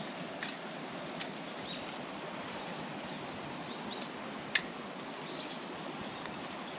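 Wood fire crackling with a few sharp pops, the loudest about halfway through, over a steady rushing background. Two short rising bird chirps come just after the middle.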